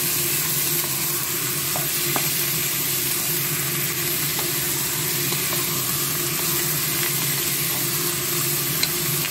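Raw chicken pieces sizzling as they fry in hot oil, stirred with a wooden spoon: a steady frying hiss with a few light taps and scrapes of the spoon.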